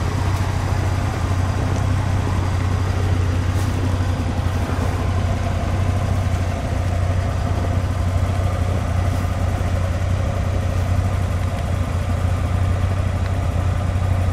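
Suzuki Samurai's four-cylinder engine idling steadily, a constant low hum with no revving.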